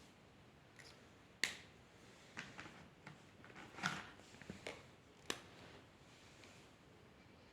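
Several sharp clicks and light taps, spread irregularly over a few seconds, as of drawing pens or markers being handled and set against paper.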